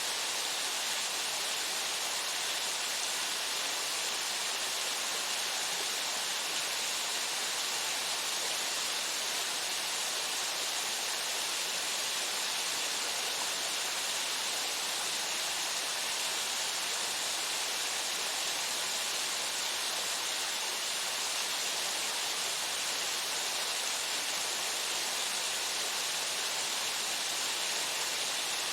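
Waterfall: water falling and splashing in a steady, even hiss, strongest in the upper range with little low rumble.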